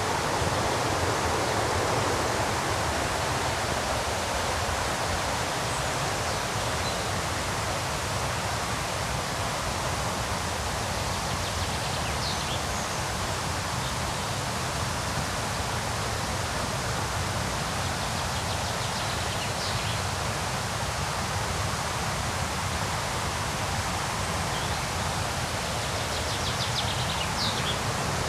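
Steady rush of river rapids, an even wash of white-noise-like water sound. A few faint, short, high bird chirps come through it now and then.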